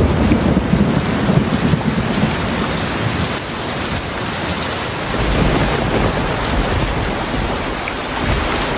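Heavy rain falling steadily with rolling thunder. A low rumble swells right at the start and another about five seconds in.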